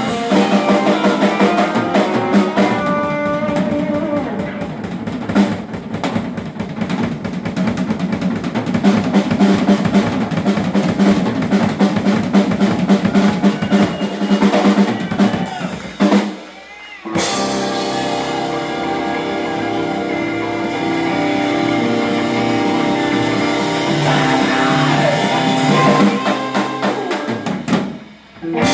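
Live rock band playing, with drum kit, electric guitar and bass. The music drops out for about a second two-thirds of the way through, then comes back on long held chords that stop near the end.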